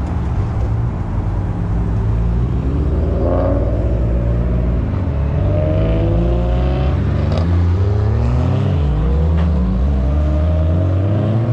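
Built Toyota 2JZ straight-six engine running over a steady low drone, revved up and down several times from about three seconds in.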